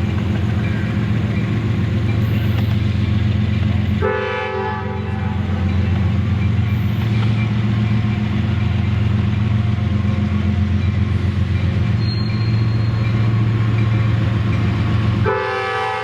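Diesel freight locomotive running close by with a heavy low rumble, its multi-chime air horn sounding about four seconds in and again near the end.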